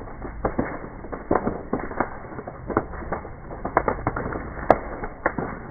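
Wood bonfire crackling and popping irregularly, with one sharper crack near the end.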